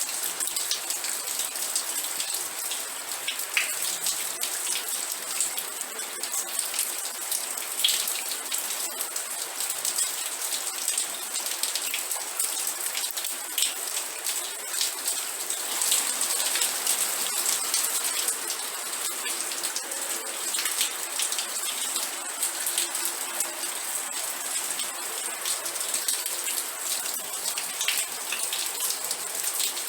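Steady rain falling, a dense, even patter of many small drop ticks with a constant hiss.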